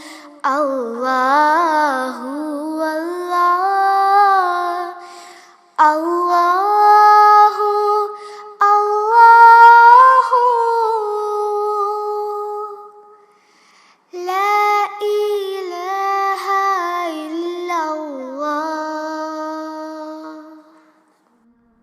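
A girl's voice singing a naat unaccompanied, in three long phrases of drawn-out, ornamented notes with brief breaths between them. The last phrase dies away near the end.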